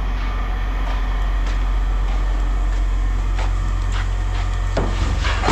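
An engine running steadily with a low rumble, with a few light knocks over it.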